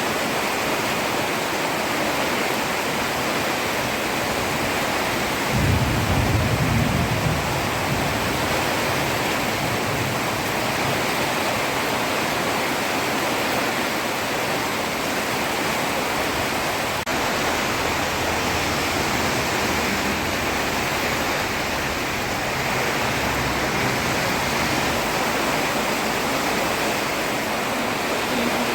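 Heavy rain falling steadily on a road, an even hiss. A brief low rumble rises out of it about six seconds in.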